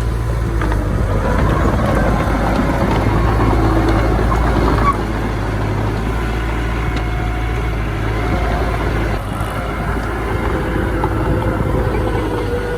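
Heavy diesel earthmoving machinery running steadily: a low engine drone with faint whining tones above it, easing slightly about five seconds in.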